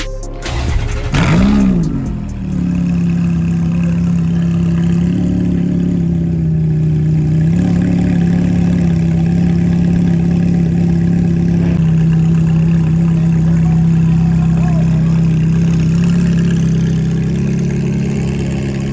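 Ferrari F430's V8 revs once briefly about a second in, rising and falling, then settles into a steady idle.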